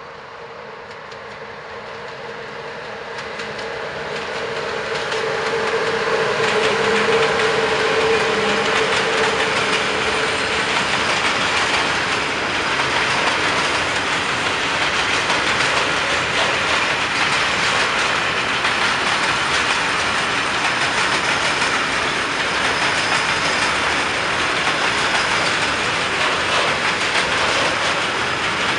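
A GFR class 40 (LE 5100) electric locomotive approaches and passes with a freight train, growing louder over the first six seconds with a steady hum. The covered freight wagons then roll past in a steady rumble, their wheels clicking over the rail joints.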